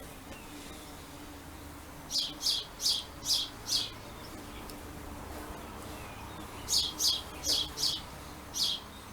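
A small songbird chirping in two short runs of sharp, high chirps, about five in each run.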